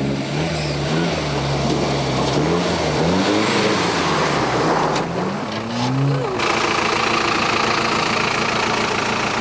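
Off-road 4x4's engine revving up and down repeatedly as it works through an obstacle, then from about six seconds in a steady, even drone.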